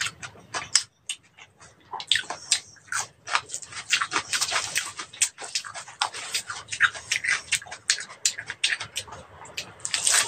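Close-miked chewing and wet mouth smacking, with crisp, wet lettuce leaves crackling as gloved hands fold them into a wrap, and a loud crunchy bite near the end.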